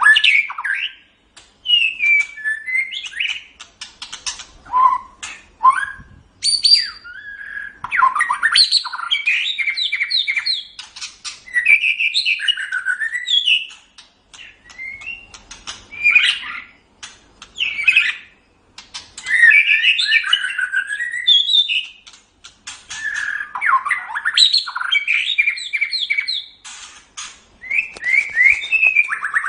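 White-rumped shama (murai batu) singing a loud, varied song of quick sweeping whistles and trills, delivered in phrases of a few seconds separated by short pauses.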